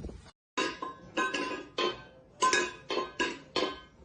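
A quick run of sharp, ringing strikes, about two a second, after a brief silence.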